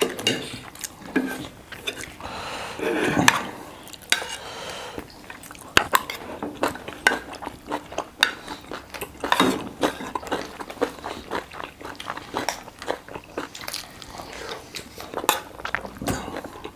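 Eating utensils clinking and scraping against bowls and plates in many short, irregular clicks, mixed with chewing. A louder stretch of noisy rustle comes about three seconds in.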